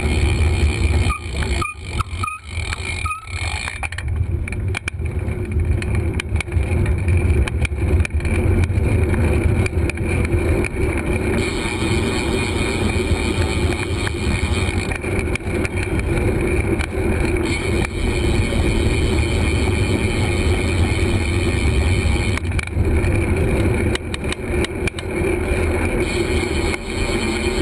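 Wind buffeting a GoPro's microphone during a bicycle ride, a steady low rumble with road noise underneath.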